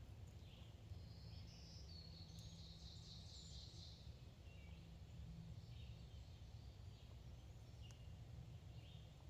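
Faint outdoor birdsong: scattered short high chirps, with a busier, louder stretch of song about two to four seconds in, over a steady low background rumble.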